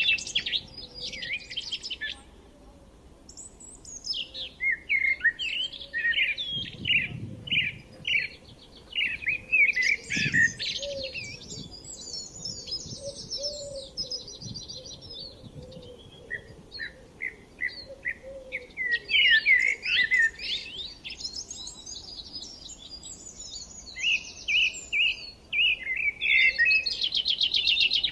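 Several songbirds singing and chirping together in quick trills and short repeated notes, with a brief lull a couple of seconds in.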